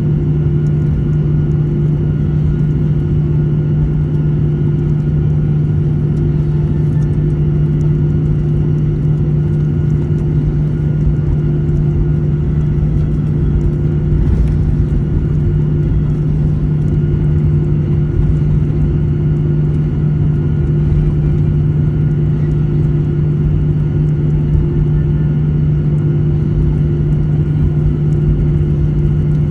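Airliner cabin noise: a steady, loud drone of the jet engines and airflow heard from inside the cabin, a constant low hum that does not change in pitch.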